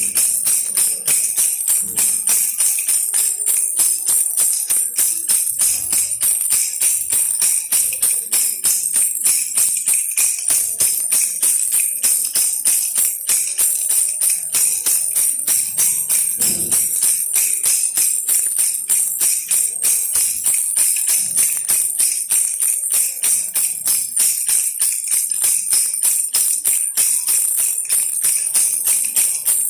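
Baby rattle toy shaken steadily, giving a bright jingling rattle in a fast, even rhythm.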